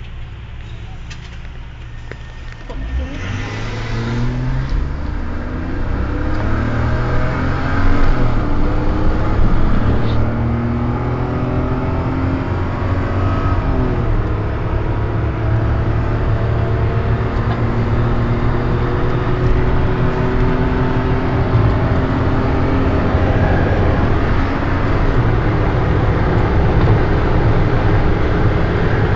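Jaguar XJ6 3.2 Sport's 3.2-litre straight-six under full throttle, heard from inside the cabin. About three seconds in the engine note swells and then climbs steadily in pitch as the car gathers speed, over road and wind noise.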